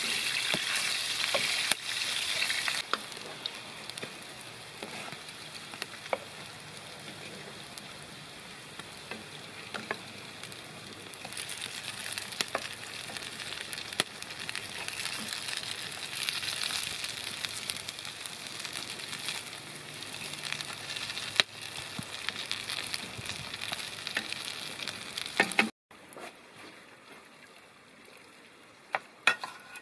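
Green vegetable patties sizzling in hot oil in a frying pan, with a few light taps of a wooden spatula against the pan. The sizzle is loudest at first, dies down, swells again, and cuts off abruptly near the end.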